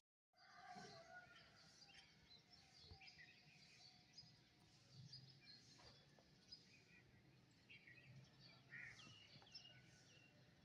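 Small birds chirping and twittering faintly: many short calls overlapping, with no single song standing out.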